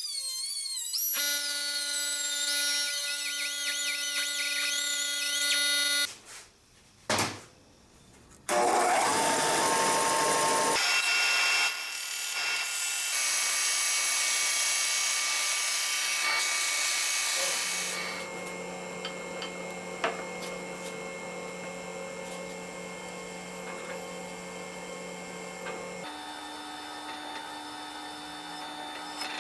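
Small electric power tool, like a drill or rotary tool, running steadily in several short clips cut one after another, its pitch changing at each cut, with a brief near-silent gap about six seconds in.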